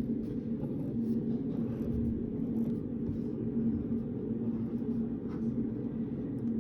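Steady low hum of a study room's ventilation, with a constant tone in it, and faint scattered ticks and scratches of pen on paper.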